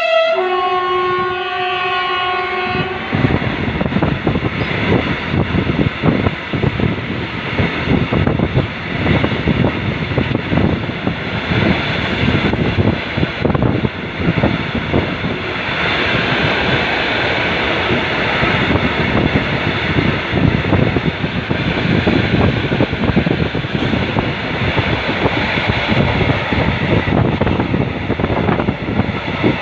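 Turkish State Railways (TCDD) fuel train passing close by. Its horn sounds at the start, steps down to a lower note, and stops about three seconds in. After that the wagons' wheels rumble and clack steadily over the rails.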